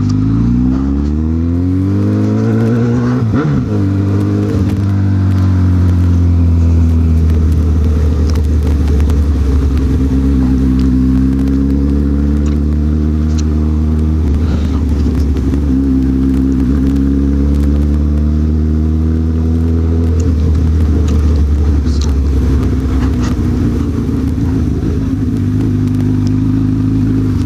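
Honda CB1000R's inline-four engine under way. The revs rise in the first few seconds, break for a gear change about three and a half seconds in, then hold steady at a cruise. They dip and pick up again around fourteen seconds in and drop off around twenty seconds in.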